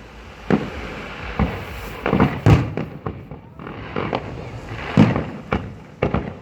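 Fireworks display: aerial shells bursting in an irregular string of sharp bangs with a rumbling echo between them, the loudest about two and a half seconds in and again at five seconds.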